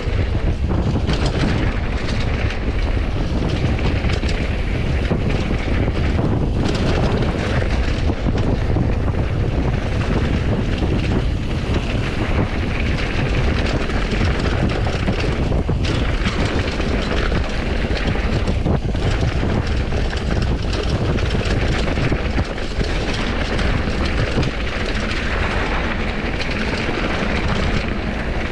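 Steady wind rush on an action camera's microphone during a fast descent on a downhill mountain bike, mixed with the rumble of the bike rolling over dirt.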